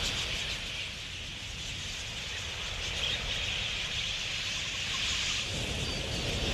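A flock of wild budgerigars chattering: a dense, steady mass of high chirps, over a low rumble.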